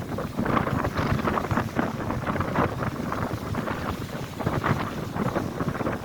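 Strong gusty wind buffeting the microphone, over lake waves breaking on the shore; the noise surges and eases unevenly.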